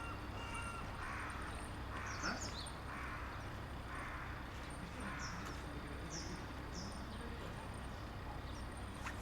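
A crow cawing about five times, roughly once a second, with a few short high bird chirps in between, over a steady low hum.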